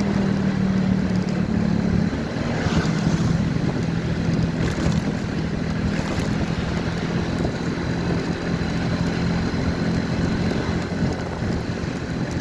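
Motorcycle engine running at a steady cruise while riding, with wind rushing over the microphone.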